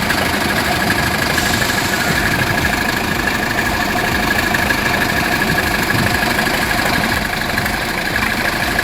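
A heavy vehicle's engine running steadily, with a constant high whine over a dense low rumble.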